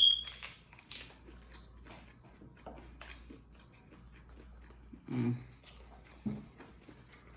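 Close-up chewing and crunching of tostadas with fried corn tortilla shells, many small crisp crunches. There is a sharp loud click right at the start and two short low sounds about five and six seconds in.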